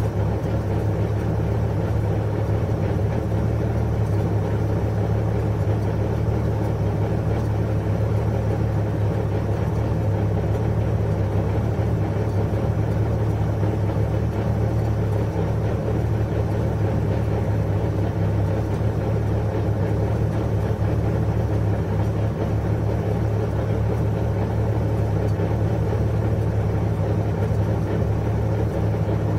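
Porsche 911 GT3 RS flat-six engine idling steadily with the car stopped, an even low hum that does not change.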